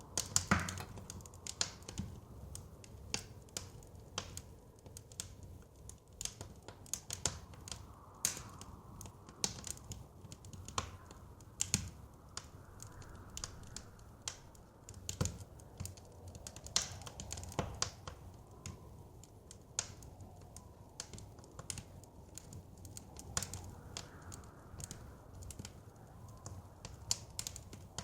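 Wood fire crackling, with frequent irregular sharp pops and snaps over a low rumble, and soft wind swelling and fading now and then.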